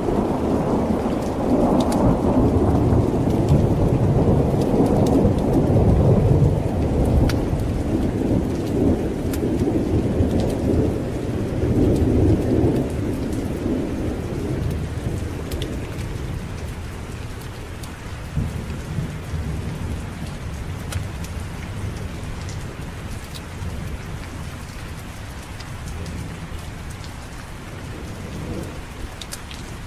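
A long roll of thunder, rumbling for about the first half and then slowly dying away, over steady rain falling with scattered drop ticks.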